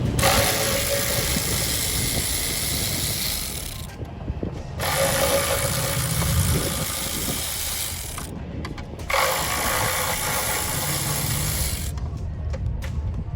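Powered ratchet wrench running in three runs of about three to four seconds each, with short pauses between, turning fasteners on the engine.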